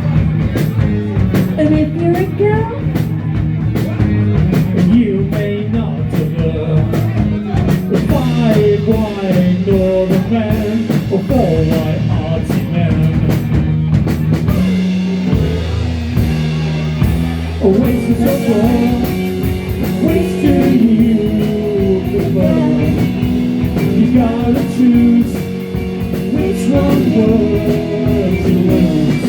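Live indie rock band playing: electric guitars and a drum kit keep a steady beat under a sliding melodic lead line, with no clear lyrics.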